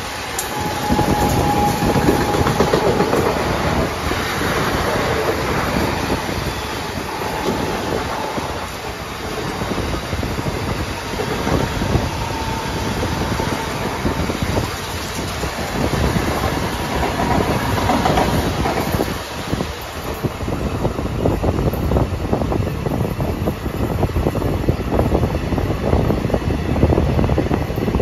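Express train running along the track, heard from aboard: a steady rumble with rapid clickety-clack of the wheels over the rails. A faint high squeal comes and goes.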